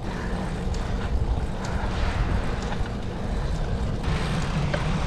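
Bicycle rolling over a gravel surface: a steady rumble of tyres and wind on the microphone, with scattered small clicks and rattles.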